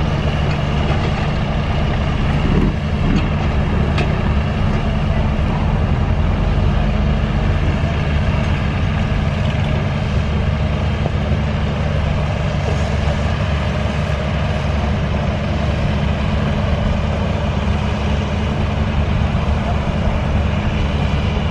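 Antique farm tractor engine running steadily at a low, even pitch, with little change in level.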